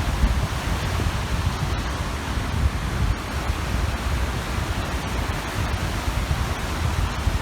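Wind-driven waves washing on the shore of a large lake, with wind gusting on the microphone as an uneven low rumble under a steady hiss of surf.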